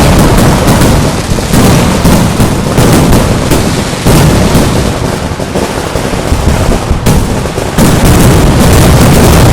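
Very loud Kerala temple fireworks (vedikettu): a rapid, continuous barrage of overlapping bangs. It thins slightly in the middle and becomes a dense wall of blasts again near the end.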